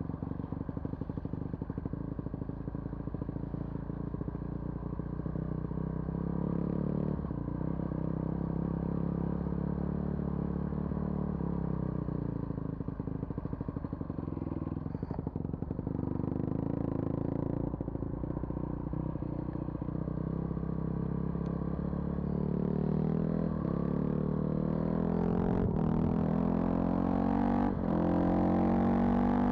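A vehicle's engine running while driving on a rough road, with occasional knocks and rattles; the engine note climbs in pitch near the end as it speeds up.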